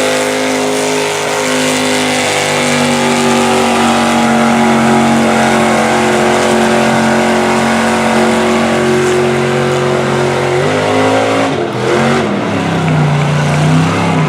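Ford Bronco mud truck's engine running hard at high revs, its pitch holding and slowly climbing. About eleven seconds in, the revs drop, then pick up again, wavering.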